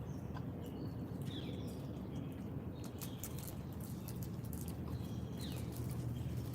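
Small wild birds giving short chirps, including a couple of quick downward-sliding calls, over a steady low background rumble, with scattered light clicks.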